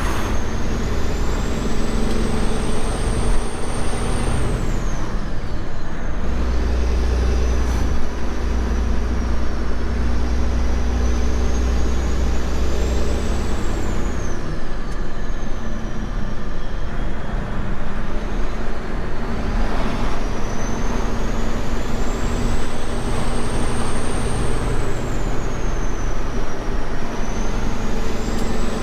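A semi truck's diesel engine and road noise, heard steadily, with a thin high whine that slowly rises and falls about three times.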